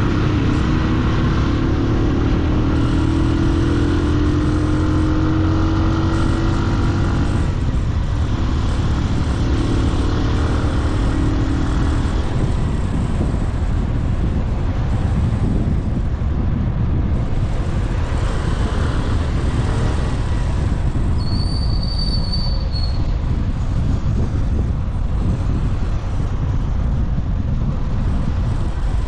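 Boda boda motorcycle engine running under way with a steady low rumble of road and wind noise; the engine note rises twice in the first twelve seconds as it accelerates. A short high tone sounds briefly about twenty-two seconds in.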